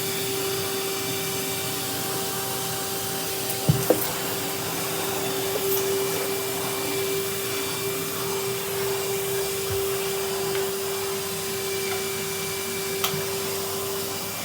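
Vacuum cleaner with a brush attachment running steadily, its motor holding one steady whine over the rush of air. The brush knocks against something twice a little before four seconds in and once more near the end.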